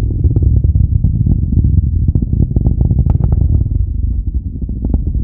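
Distant SpaceX rocket's engine sound reaching the ground after liftoff: a deep, continuous rumble with a scatter of crackling pops.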